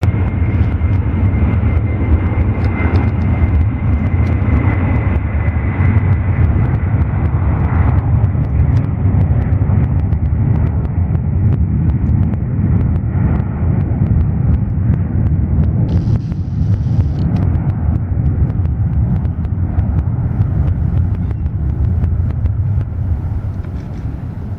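McDonnell Douglas MD-11 trijet on its takeoff run: a loud, deep jet engine rumble with a steady high whine that fades out after about eight seconds. The rumble eases off near the end.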